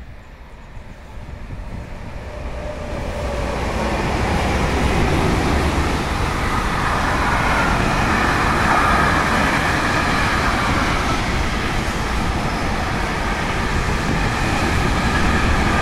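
Freight train of car-carrier wagons rolling past at close range: a rumbling noise that builds over the first four seconds and then holds steady, with a higher squeal from the wheels on top from about six seconds in.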